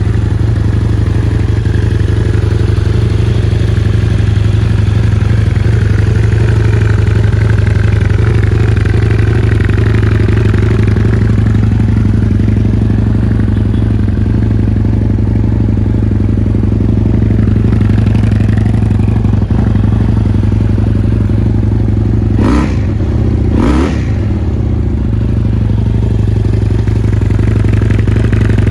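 2012 Husqvarna Nuda 900's parallel-twin engine idling steadily, with a couple of brief knocks near the end.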